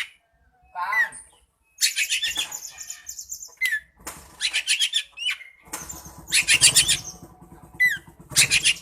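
Oriental magpie-robin (kacer) singing: bursts of fast, harsh repeated notes, each about a second long, alternating with short whistled slides, with brief pauses between phrases. A low rumble joins in about six seconds in.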